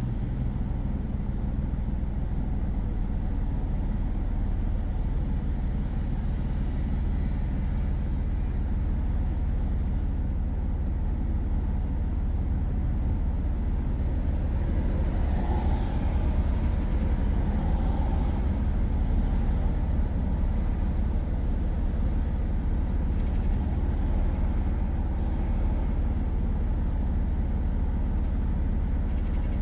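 A car being driven, heard from inside the cabin: steady low engine and road rumble, with a brief higher sound swelling and fading about halfway through.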